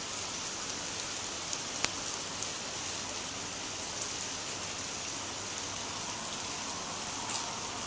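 Steady rain falling and pattering on surfaces, with a few sharp drop ticks.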